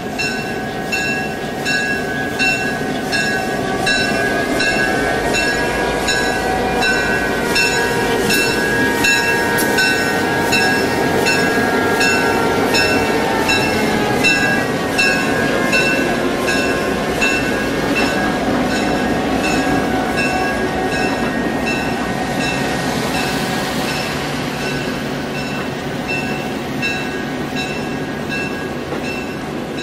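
A road-switcher diesel locomotive running slowly past with a train in tow, its engine rumbling and wheels rolling on the rails, while a bell rings steadily about every two-thirds of a second. Around the middle a whine drops in pitch as the diesel goes by, and a brief hiss comes about two-thirds of the way in.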